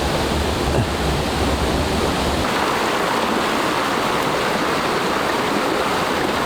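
Steady rushing of a rainforest creek's flowing water. A low rumble under it drops away about two and a half seconds in.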